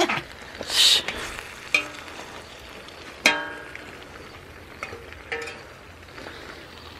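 Discada of meat and onions sizzling in a steel disco (cowboy wok), with a metal spatula scraping and clinking against the pan; one sharp ringing clink a little over three seconds in.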